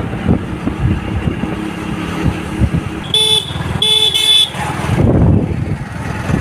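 A vehicle horn honks twice, two short blasts about three and four seconds in, over steady road traffic and engine noise.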